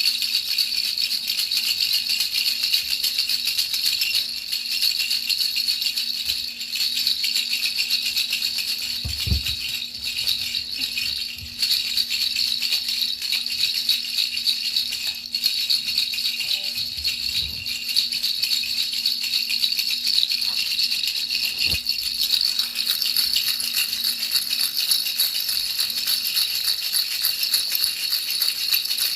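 Baby rattle shaken continuously: a dense, fast, unbroken rattling, used as soothing noise for a baby's sleep. A faint steady hum sits underneath, with a couple of soft low thumps.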